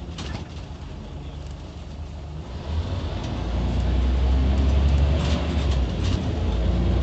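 Scania OmniCity city bus heard from inside: its diesel engine rumbles low, growing clearly louder a little before halfway as the bus accelerates and then holding strong, with a few rattling clicks near the start.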